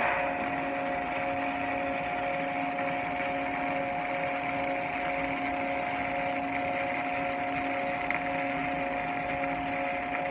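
A steady machine hum: a few held tones over an even hiss, unchanging throughout.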